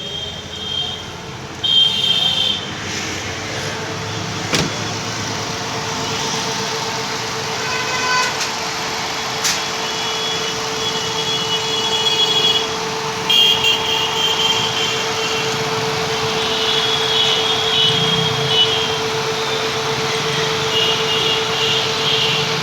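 Maruti K-series 1.5-litre straight-four petrol engine running steadily with a constant whine. Short high-pitched tones come and go over it, and there are a couple of sharp clicks.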